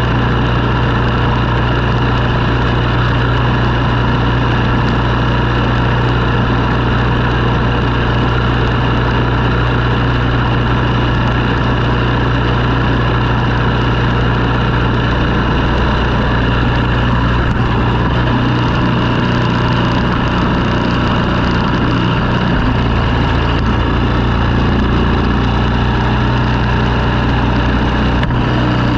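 An engine running steadily with a continuous low drone; its low tones shift briefly about two-thirds of the way through.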